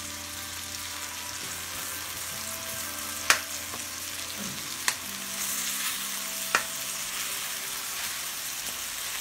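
Pork, garlic, onion and tomato sizzling in oil in a metal wok while a spatula stirs them, with three sharp clanks of the spatula against the wok, the loudest about three seconds in.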